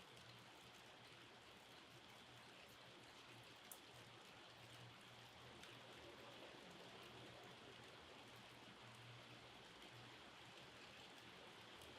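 Faint, steady light rain with scattered drops ticking, and one sharper drop about four seconds in.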